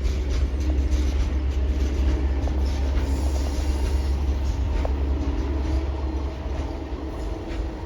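Norfolk Southern Triple Crown RoadRailer freight train rolling by, a steady rumble of wheels on the rails with a few brief squeaks.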